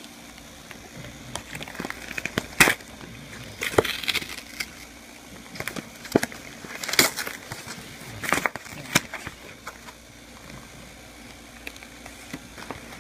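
A dog tearing and chewing at a wrapped package: irregular crackling and crunching of the packaging, in short bursts with pauses between.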